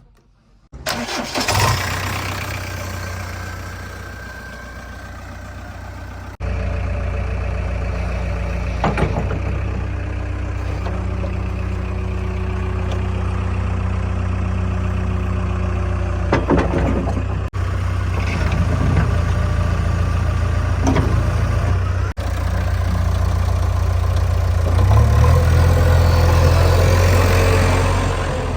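Heavy diesel engine running steadily, with a few sharp knocks and clanks of working machinery.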